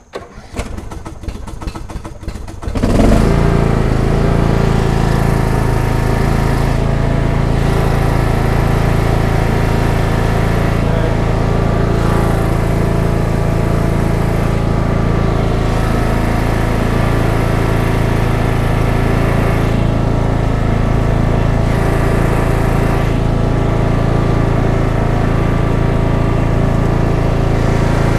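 Cub Cadet XT1 riding lawn tractor engine starting: a few seconds of rapid clattering, then it catches about three seconds in and runs steadily at an even speed.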